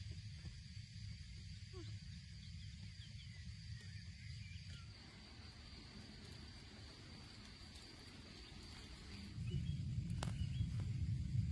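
Outdoor ambience: a steady low rumble with a few short bird chirps over a constant thin high-pitched insect tone. The rumble gets louder near the end.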